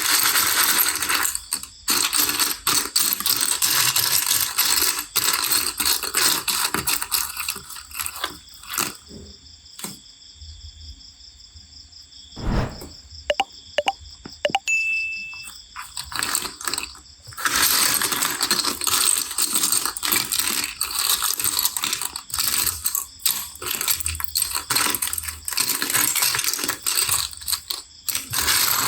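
Plastic building bricks clattering and clicking as they are handled and rummaged through, with a quieter stretch in the middle that holds only a few sharp clicks and a knock.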